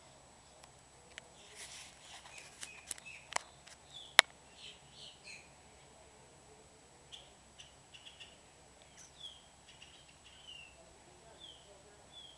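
Small birds chirping: short, falling chirps repeated about once a second. A few sharp clicks come in the first half, the loudest about four seconds in.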